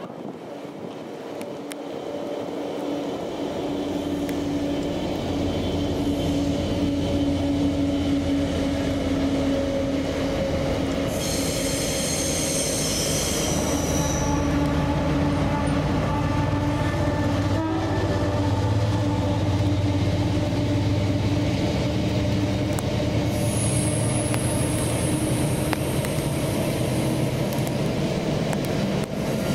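A train running past on the main line, building up over the first few seconds and then holding steady, with a steady droning tone from its engine or motors. Brief high-pitched squeals come in about twelve seconds in and again near the end.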